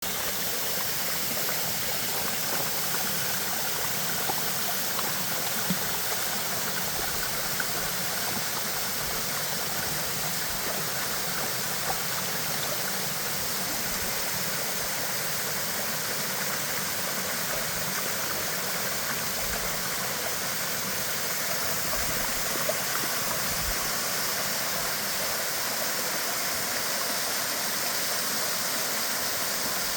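Steady rushing of a waterfall, with a few faint clicks now and then.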